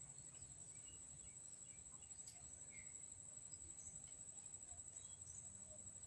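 Near silence with a faint, steady, high-pitched insect drone, like a cricket, and a few faint, scattered chirps.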